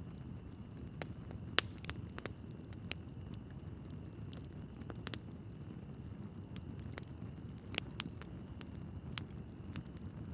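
Wood logs burning in a fireplace: a low, steady rumble of flames with scattered sharp crackles and pops, the loudest about one and a half seconds in and again about eight seconds in.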